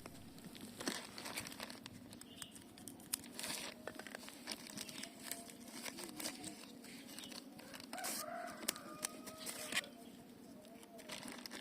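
Plastic sungkup cover crinkling and rustling in irregular crackles as it is pulled off a bonsai, the humidity tent being opened. A chicken clucks in the background a few times past the middle.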